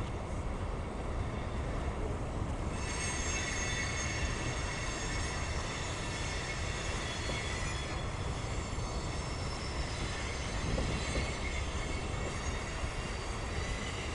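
CSX mixed freight train's cars rolling past with a steady low rumble. A high-pitched wheel squeal of several steady tones joins about three seconds in and keeps on.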